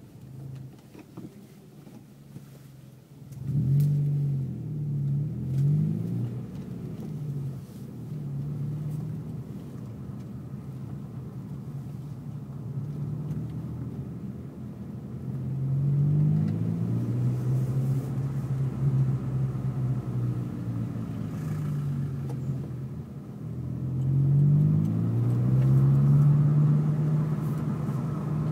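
Exhaust note of an Opel Astra Bertone coupé's 2.2-litre four-cylinder through a Cobra Sport exhaust with a resonated centre silencer. Quiet idle at first, then quick blips of the revs about three and a half seconds in, and the engine climbing in revs twice more later on.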